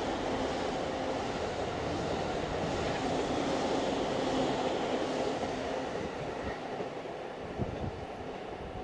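Train passing over a level crossing, a steady rumble of wheels on rails that eases off over the last few seconds.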